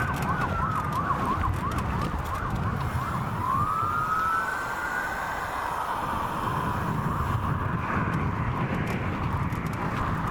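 Fire truck sirens wailing and yelping: a rapid up-and-down yelp at the start and again near the end, and a slow wail that rises about three seconds in and falls away about halfway through, over a steady low rumble of traffic.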